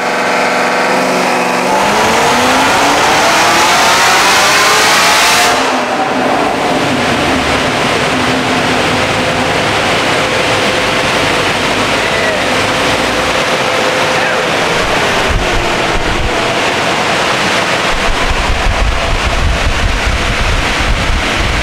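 Supercharged LT4 V8 of a Chevrolet Camaro ZL1, fitted with a 2650 supercharger, making a wide-open-throttle pull on a chassis dyno: it revs up with steadily rising pitch for about five seconds to roughly 7,100 rpm, then lifts off. The car then coasts down on the dyno rollers, a steady whine that sinks in pitch partway through, with a low rumble near the end.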